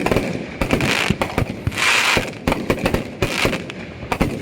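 Many fireworks and firecrackers going off at once: a dense, irregular string of bangs and pops, with swells of crackling about two seconds in and again near the end.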